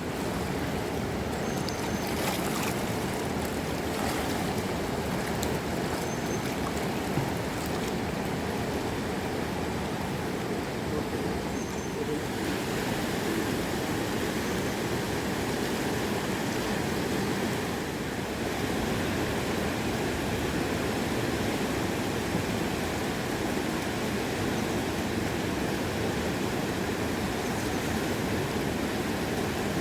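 Mountain river rushing steadily: a continuous, even noise of flowing water.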